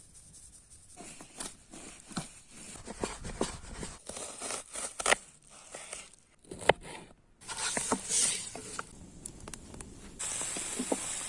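Irregular rustling and tapping of things being handled, with a few sharp clicks, then a steady hiss starting about ten seconds in.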